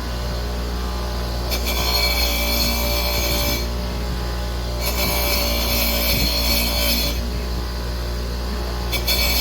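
Electric drill running steadily with a wire wheel, scrubbing rust off a scooter wheel in three passes of harsh scratching: about a second and a half in, about five seconds in, and again near the end.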